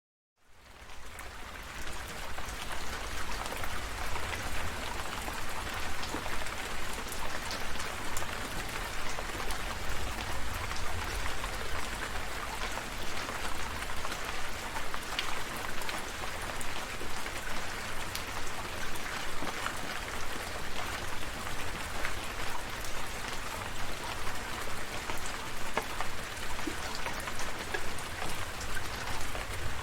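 Steady rain falling, with many separate drop hits heard over an even hiss and a low rumble underneath. It fades in from silence in the first second.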